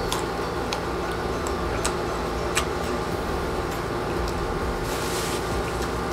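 Close-up crunching and chewing of firm unripe green mango, with a few sharp crunches in the first three seconds and a short burst of noise about five seconds in, over a steady, fairly loud background hum.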